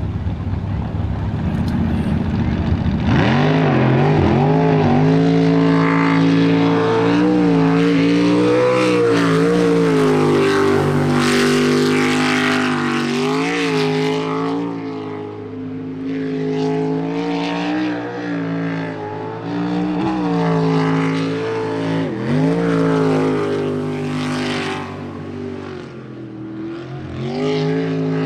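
Jet sprint boat engine at racing speed through a timed run. Its pitch shoots up about three seconds in, then rises and falls again and again as the throttle is worked, fading somewhat in the second half.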